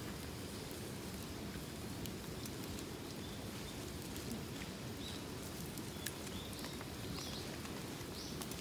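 Campfire burning, a steady low rush with a few scattered crackles and pops, and some faint short chirps in the second half.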